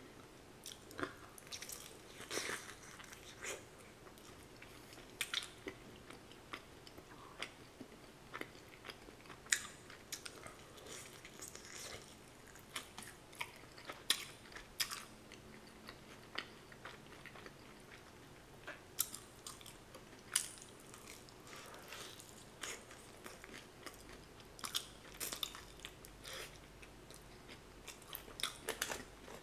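Chewing and biting into sauce-coated Korean fried chicken, with irregular crunches and crackles throughout.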